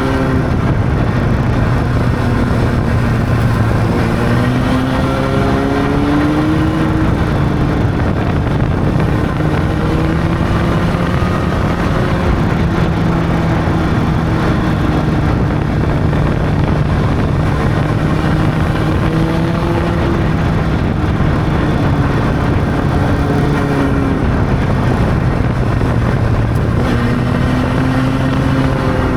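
Honda CB600's inline-four engine running on the move at a steady cruise, its pitch rising and easing gently with the throttle over a constant rush of noise.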